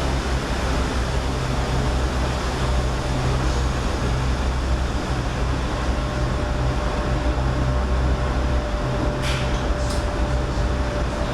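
Sydney Trains red set electric train heard from the driver's cab while under way: a steady rumble with a low hum. A thin steady tone joins about halfway, and two short sharp noises come near the end.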